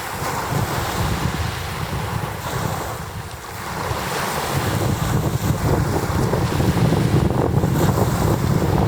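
Rough sea: waves crashing and washing against the shore in strong wind, with heavy wind buffeting on the microphone. The surge eases briefly about three seconds in, then builds again.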